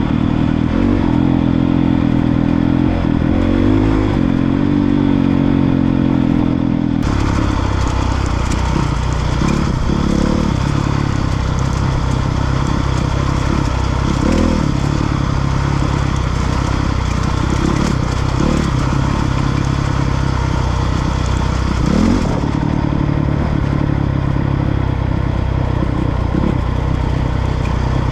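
Honda CRF450R dirt bike's single-cylinder four-stroke engine running on a trail ride, its note rising and falling again and again with the throttle. The sound shifts abruptly about seven seconds in and again near twenty-two seconds, as if from a cut between shots.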